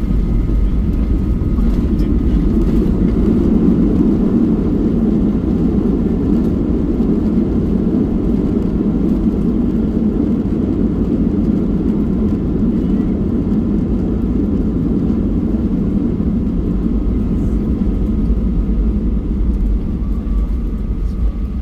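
Steady low rumble of a Boeing 737-800 in flight or on the runway, heard from inside the cabin: its CFM56-7B engines and the rush of air, a little louder a few seconds in and easing slightly near the end.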